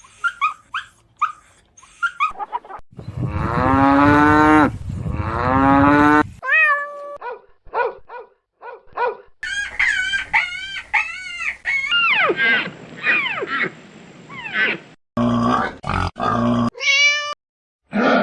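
A quick succession of different animal calls, cut one after another. It opens with a run of short high chirps, followed by two long drawn-out calls, then a string of varied shorter high-pitched cries.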